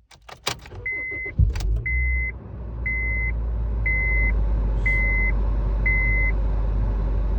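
Honda Fit's four-cylinder engine starting about a second and a half in and then idling with a steady low hum, after a few clicks. Over it a warning chime beeps six times, about once a second, on one high tone.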